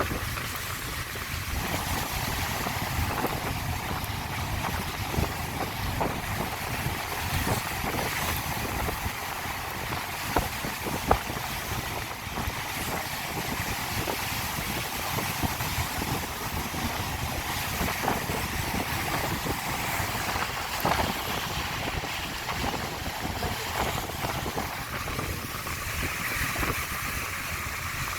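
Mountain valley stream rushing over rocks in a steady, even wash of water, with some low wind rumble on the microphone.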